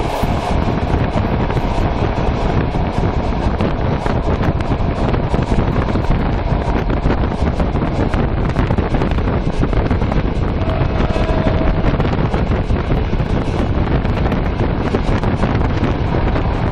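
Steady wind buffeting the microphone at the open window of a moving passenger train, over the running rumble of the train on the track.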